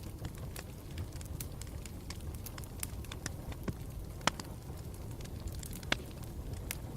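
Campfire burning with a steady low rumble and irregular crackles and pops of burning wood, two sharper pops standing out a little after the middle.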